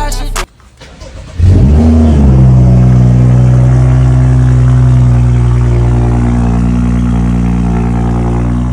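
2015 BMW 335i's turbocharged inline-six starting up through a catless downpipe and muffler-deleted exhaust: a quick rising flare about a second and a half in, then settling into a steady idle.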